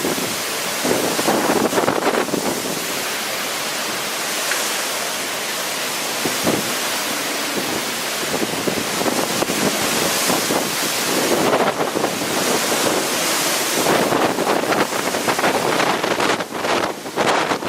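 Hurricane-force wind gusting and buffeting the microphone, with driving rain, in Hurricane Florence's eyewall. The roar swells in surges, strongest about a second in, around two-thirds of the way through and near the end.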